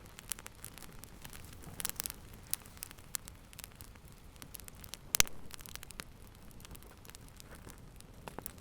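Wood fire crackling in a fireplace: a low hiss with scattered sharp snaps and pops, a quick cluster of them about two seconds in and one loud pop about five seconds in.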